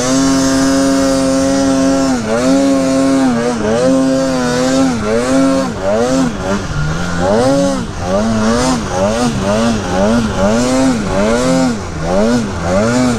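Snowmobile engine held at high revs for a couple of seconds, then revved up and down over and over, about twice a second, as the throttle is worked on and off.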